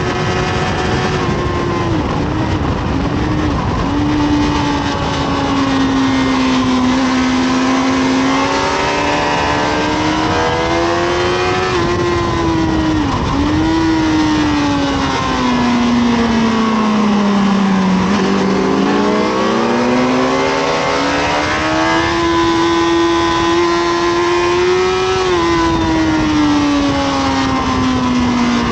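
Honda CBR1000RR SC57's inline-four engine being ridden hard on track, its pitch climbing and falling as the rider accelerates and brakes, with quick dips at gear changes. The lowest point comes a little past halfway, followed by a long climb. A steady rush of noise runs underneath.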